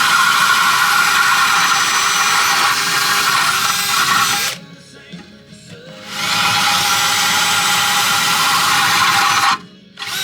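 Power drill boring into the ceramic honeycomb core of a diesel particulate filter, running in two long steady runs of several seconds with a short pause between, then a brief burst at the very end.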